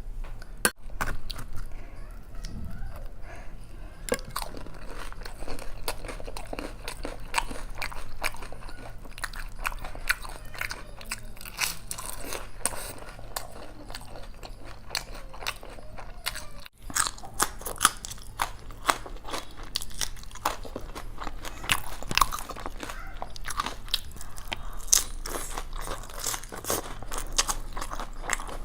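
Close-up eating sounds: a person biting and chewing crisp fried food such as pakwan and samosas, a steady run of wet chewing with irregular crunches and crackles.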